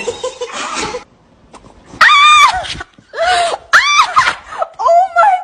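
A dog's loud, high-pitched cries, four or five in a row, each rising and then falling in pitch, beginning about two seconds in.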